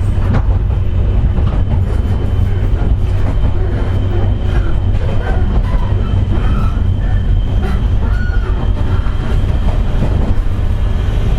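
Running sound inside a JR West 201 series electric train at speed: a continuous rumble of the wheels and motors on the track, with a steady high whine over it. The whine is the 'jet sound' of this car's traction motor bearings, damaged by electrical erosion.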